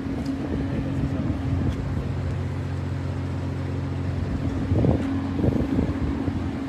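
Steady low engine hum with a few even tones, under wind buffeting the microphone, with rougher gusts about five seconds in.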